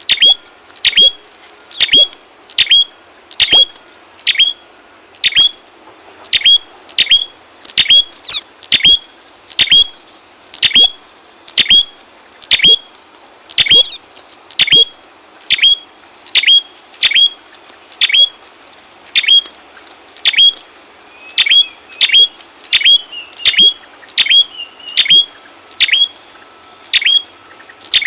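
Bird-lure recording of a prenjak kepala merah (red-headed prenjak) calling: a loud, rapid run of sharp chirps, about two a second and often in pairs, each a quick falling note.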